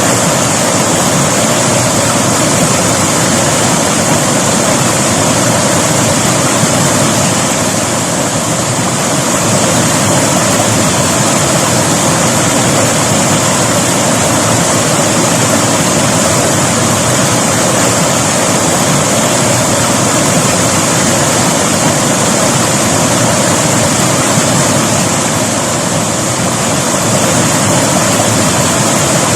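River water rushing steadily over rocks, a continuous loud flow with no breaks.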